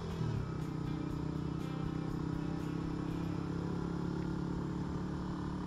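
Small chopper-style motorcycle engine, a Super Shadow 250, running under way. Its pitch drops shortly after the start, holds steady, then drops again near the end.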